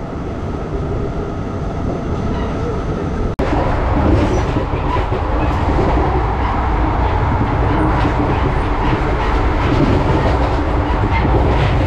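Passenger train running at about 105 km/h, heard from inside the coach: a steady, loud rush of wheel-on-rail and running noise. For about the first three seconds a quieter rolling sound is heard, then it cuts abruptly to the full-speed noise.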